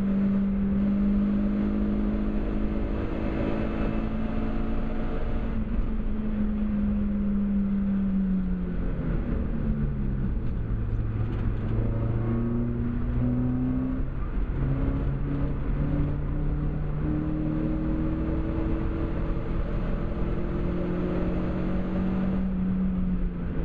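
Seat Cordoba Cupra's 2.0-litre 16-valve four-cylinder (ABF) engine at full load on track, heard from inside the car over tyre and wind noise. It holds high revs, then the revs fall sharply about eight to ten seconds in as the driver lifts off. They then climb again in steps through the gearshifts, back to high revs near the end.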